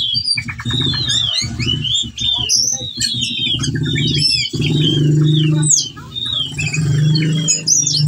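Male whistling thrush (ciung batu) singing in full breeding condition, pouring out a rapid run of varied chirps and whistled slurs, over a low steady hum.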